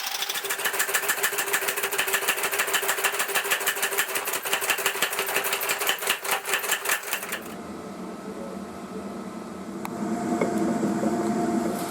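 Power hammer forging hot wrought iron in rapid, evenly spaced blows that stop about seven seconds in. A quieter low hum with a few steady tones follows.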